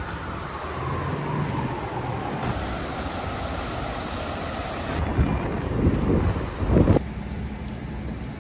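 City street traffic: a passing vehicle whose pitch falls slowly over several seconds, then loud low rumbling surges about five to seven seconds in, typical of gusty wind buffeting the microphone.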